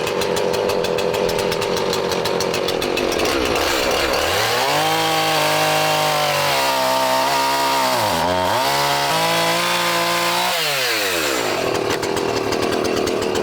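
Tractor engine running, then revving up at about four seconds in, holding high with a brief dip, and dropping back to a lower speed near the end.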